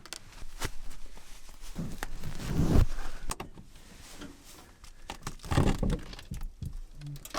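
Rustling and a series of clicks and knocks as someone moves about in a truck bed under a camper shell and works the snow-laden rear hatch's latch, with heavier rustling about two seconds in and again near the end.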